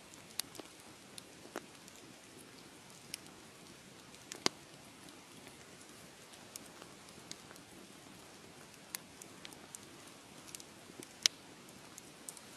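Wood fire crackling: irregular sharp pops and snaps over a soft steady hiss, with the loudest pops about four and a half seconds in and again about eleven seconds in.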